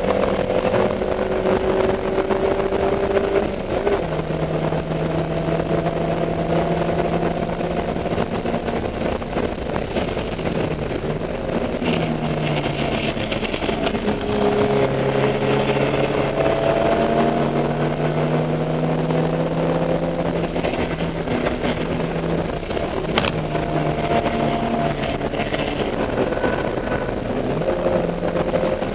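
Dodge Neon race car's four-cylinder engine running hard on track, heard from inside the car. Its pitch climbs slowly and drops back in steps a few times as the driver shifts and brakes, with one sharp click late on.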